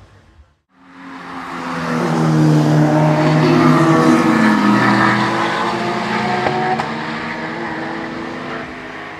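A race car approaching and passing at speed: its engine swells, drops in pitch as it goes by, then fades away.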